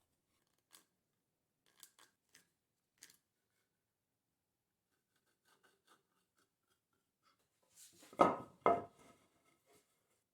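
A few light clicks and taps, then two sharp knocks about half a second apart near the end, like wood or tools being handled on a workbench.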